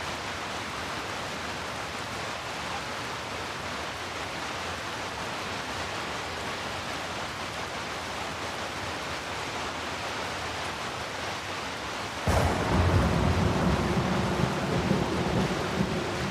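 Steady rain hissing, then about twelve seconds in a sudden thunderclap that rolls on as a loud, low rumble.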